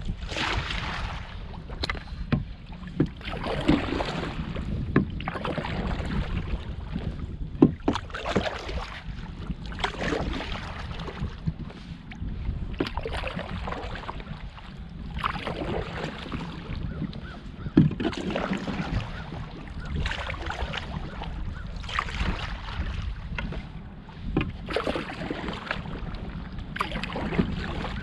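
Canoe paddling: a watery swish of the paddle stroke about every two to three seconds, with a sharp knock now and then, over a low wind rumble on the microphone.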